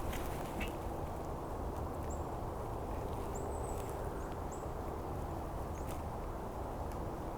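Outdoor morning ambience: a steady low rumble with scattered sharp ticks and a few faint, short high bird chirps.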